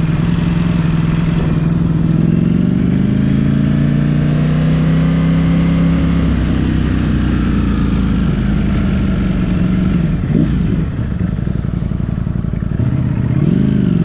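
Ducati motorcycle engine running close by. Its pitch climbs slowly and eases back down, then rises and falls briefly twice near the end.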